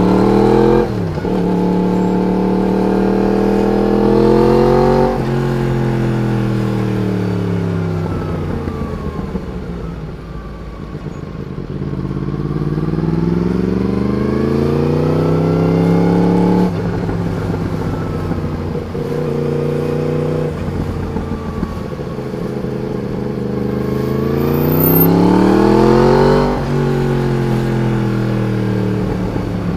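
Yamaha MT-10's crossplane inline-four engine through a carbon fibre stubby slip-on exhaust with the catalytic converter still fitted, being ridden. The revs climb and cut sharply at gear changes twice near the start, fall away slowly as the bike slows, then climb again through the gears with sharp shifts midway and near the end.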